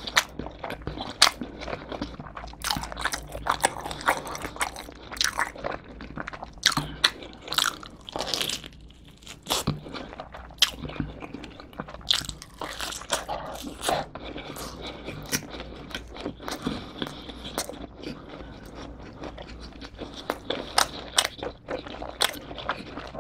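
Close-miked chewing and biting of a pepperoni cheese pizza slice, with irregular wet smacks and crunches from the crust and a fresh bite around the middle.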